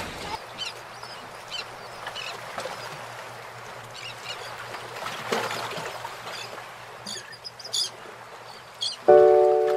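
Birds chirping in short, scattered high calls over a soft steady outdoor hiss. Music with clear sustained notes starts near the end and is louder than the birds.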